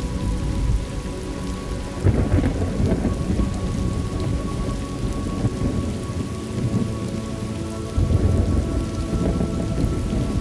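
Thunderstorm ambience: steady rain with rolling thunder that swells about two seconds in and again near the end.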